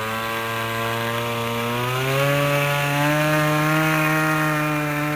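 Small model-airplane glow engine running, then revving up about two seconds in and holding at the higher speed. The onlookers judge it to be running a little lean.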